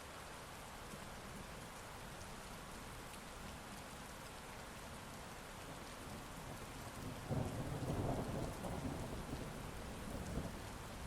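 Heavy rain falling steadily, and about two-thirds of the way through a sudden rumble of thunder breaks in and rolls on, fading gradually.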